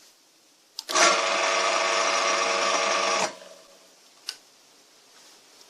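AD-180 washing-machine induction motor switched on with a click, running with a loud, steady electrical hum for about two and a half seconds, then cut off and dying away, followed by another sharp click. The owner says this motor runs incorrectly and overheats, tripping the relay's thermal protection.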